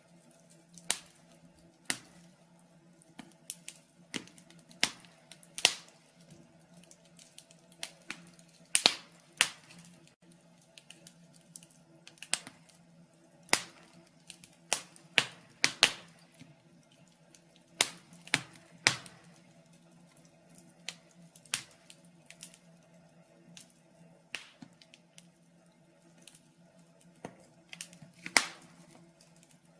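Wood fire burning in a fireplace, crackling with irregular sharp pops and snaps, sometimes singly and sometimes in quick clusters.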